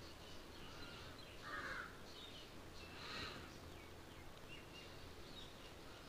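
Faint outdoor ambience of birds calling in the trees: scattered short high chirps, with two slightly louder calls about one and a half and three seconds in.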